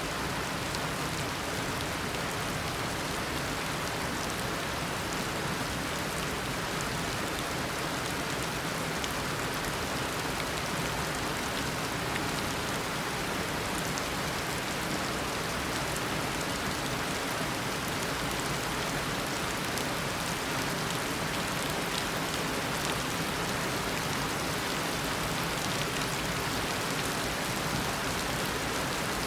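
Steady heavy tropical rain, a dense even hiss of downpour with fine drop patter on surfaces.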